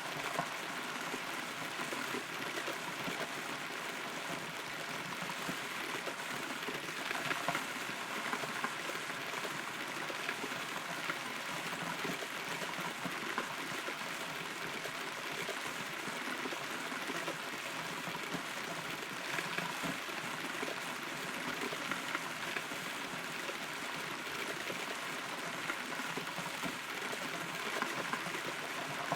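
Steady rain heard from inside a hollow rotten tree trunk, with individual drops striking close by.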